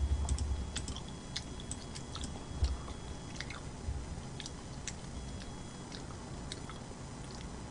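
Close-miked chewing and eating mouth sounds: scattered sharp wet clicks and soft crunches over low jaw thuds, heavier in the first second.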